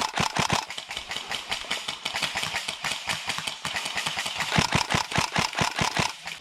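Airsoft guns firing on full auto: rapid strings of sharp shots, about seven or eight a second, strongest near the start and again from about four and a half seconds in.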